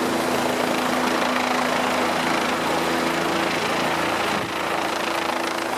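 Rescue helicopter's engine and rotor running steadily, a loud rushing noise with a steady hum underneath.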